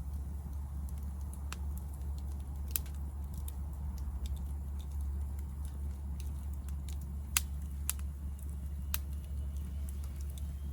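Hardwood firewood burning in a Picogrill fire pit, crackling with scattered sharp pops, the loudest about three seconds in and three more between seven and nine seconds, over a steady low rumble.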